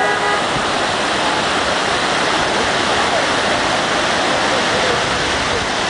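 Steady, loud rushing of a waterfall. A brief steady tone sounds right at the start, and faint distant voices come through the rush in the middle.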